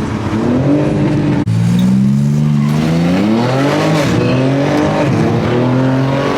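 BMW M3 (G80) with a titanium exhaust accelerating hard: its twin-turbo straight-six climbs in revs, drops back abruptly as it shifts up about a second and a half in, and climbs again, with a further dip and pull near the end.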